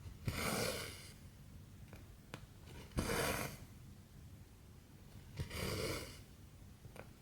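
Cotton embroidery floss pulled through 14-count cross-stitch fabric: three rasping swishes, each starting with a tick as the needle passes through, about every two and a half seconds. Faint needle ticks fall between them.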